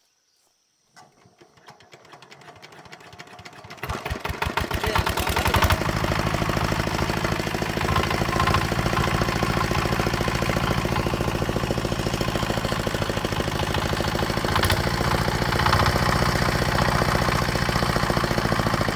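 Repaired walking-tractor engine pull-started: it turns over for a few seconds, catches about four seconds in, picks up speed, then runs steadily. It starts readily with one light pull.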